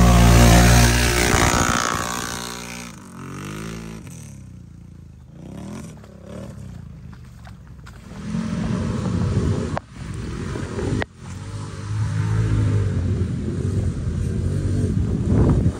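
ATV engine running while being ridden, its revs rising and falling: loud at first, easing off from about two seconds in, then picking up again from about eight seconds. Two brief sharp clicks come around ten and eleven seconds in.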